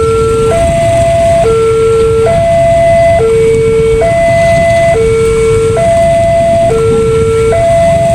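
Electronic warning alarm of a railway level crossing sounding a steady two-tone hi-lo pattern, each tone held just under a second, signalling that the gates are closing for an approaching train. A continuous low rumble runs underneath.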